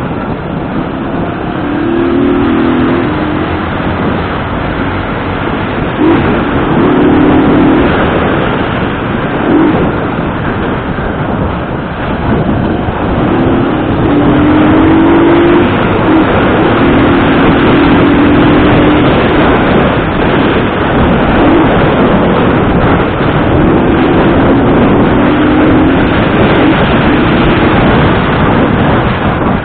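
Motorcycle engine on the move, its note climbing in short steps several times as it accelerates through the gears, under a steady rush of wind and road noise.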